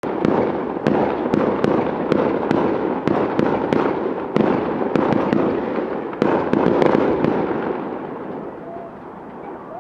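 Fireworks going off: a rapid string of sharp bangs, about three a second, over a continuous crackle, dying away over the last two seconds.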